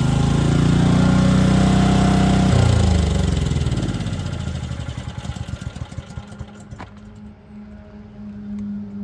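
Leyland Roadtrain T45 lorry's diesel engine running and picking up slightly, then shut off about two and a half seconds in, its firing slowing as it runs down to a stop. A faint steady hum and a couple of clicks follow.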